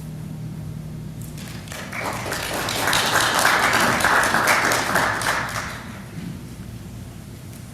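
Congregation applauding in a church, swelling for a few seconds and then dying away, right after a choir piece ends.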